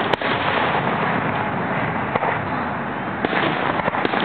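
Aerial fireworks display: shells bursting overhead in a dense, continuous barrage, with sharp bangs near the start and near the end.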